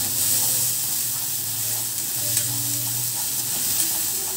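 Chopped onion, ginger and tomato sizzling in hot sesame oil in a kadai while a spatula stirs and scrapes them around the pan, sautéing them soft. A couple of sharper spatula taps on the pan stand out over the steady sizzle.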